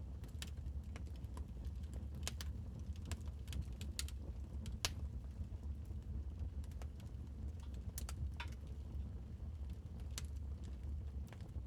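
Wood fire crackling in a fireplace: irregular sharp pops and snaps, the loudest about five seconds in, over a low steady rumble.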